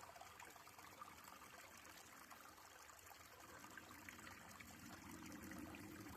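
Small forest brook with little water, trickling faintly and steadily over stones.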